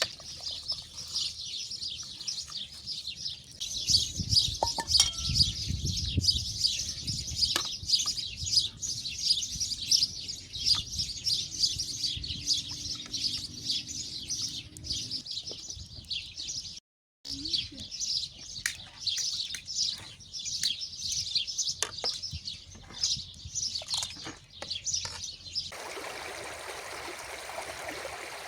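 Many small birds chirping in a dense, continuous chorus, cut off for a moment just past halfway. Near the end it gives way to the steady rush of a stream.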